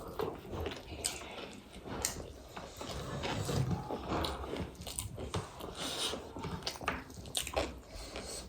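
Close-miked chewing and biting of crunchy street snacks: irregular crisp crunches and wet mouth sounds.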